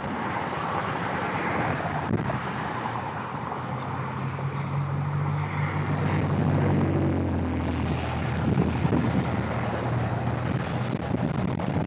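Steady low engine drone under a constant rush of wind noise, its pitch shifting slightly partway through.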